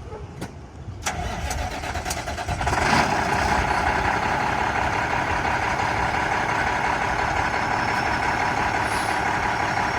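2007 International 7600 truck's diesel engine being started: about a second in the starter cranks it, it catches roughly two seconds later, and it settles into a steady idle.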